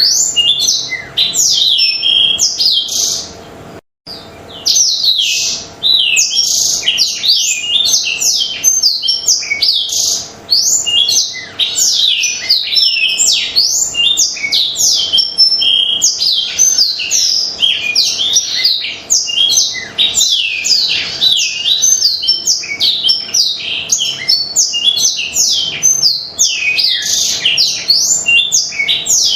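Blackthroat (black-throated canary) in full, constant song: a fast, unbroken stream of high sweeping and trilled notes, with a brief break about four seconds in.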